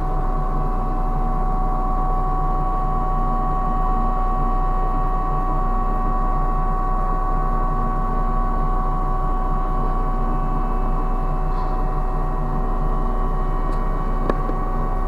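Ship's deck crane machinery running steadily, a constant mechanical drone with a high steady whine over a low hum, as the jib is lowered under crane signals. A single short click sounds near the end.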